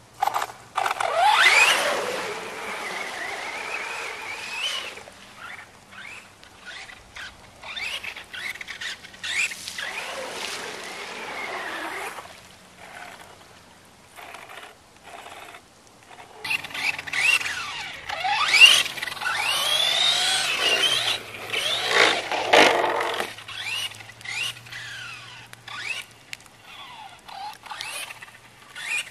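Electric R/C monster truck's motor whining up and down in pitch in three bursts of driving, over the churning noise of its tyres in mud. The longest burst comes past the middle and has the sharpest whines.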